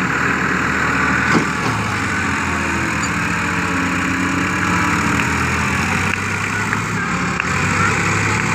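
Tractor engine running steadily, with one sharp click about a second and a half in.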